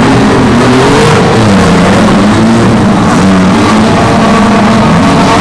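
Engines of several demolition derby cars revving and running at once, loud, their pitch rising and falling.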